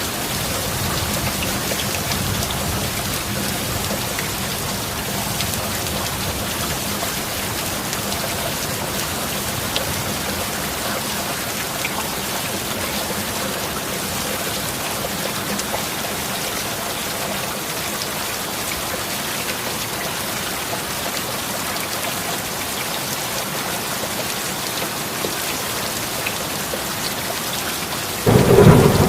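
Steady heavy rain falling as an even hiss. Near the end a sudden loud clap of thunder breaks in over it.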